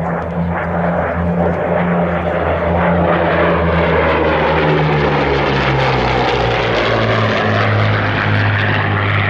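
Piston-engined propeller aircraft flying past low and loud. Its engine note grows louder, then drops in pitch about halfway through as it passes.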